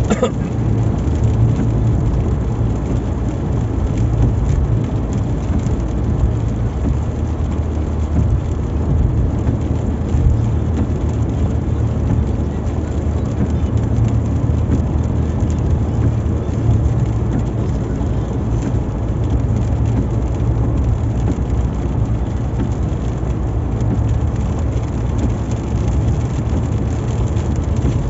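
Car driving on a highway in heavy rain: steady engine and tyre noise with rain on the car.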